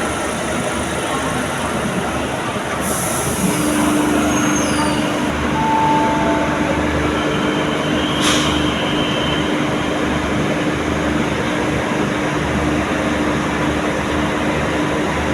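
Diesel locomotive of a State Railway of Thailand passenger train running at a station, a steady rumble under a low steady tone that comes in about three and a half seconds in. A single sharp click sounds about halfway through.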